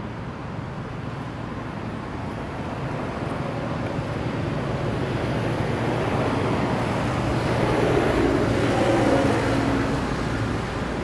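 Road traffic: a motor vehicle passing, growing louder to a peak about eight to nine seconds in and then fading, over a steady hum of traffic.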